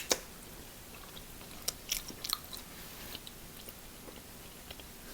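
Close-miked chewing of seafood-boil food, with a few sharp clicks and cracks, grouped at the start and again about two seconds in.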